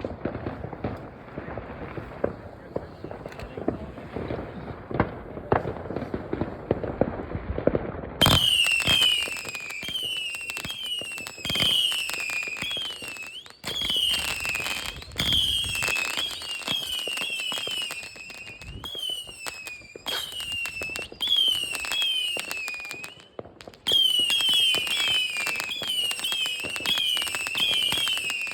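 Fireworks going off: a run of crackles and bangs, then from about eight seconds in a rapid string of high, swooping whistles over continued popping.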